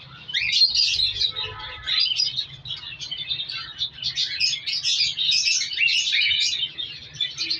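Several cockatiels chirping busily, many short calls overlapping with hardly a break, over a faint low steady hum.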